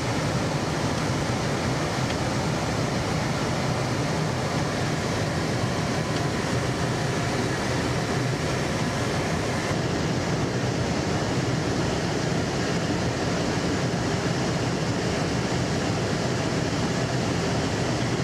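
Steady, unbroken roar of aircraft engine noise, a deep rumble with hiss over it, the top of the hiss dropping slightly about ten seconds in.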